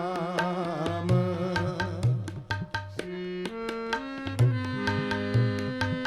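Sikh devotional kirtan: a singer holds the word "Ram" with a wavering voice for about the first second, then an instrumental interlude of held chords over a rapid tabla rhythm with deep bass-drum strokes.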